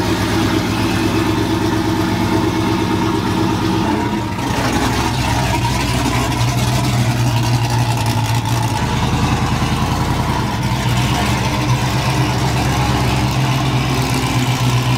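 Car engine idling steadily, with its exhaust tone shifting about four seconds in and again about nine seconds in.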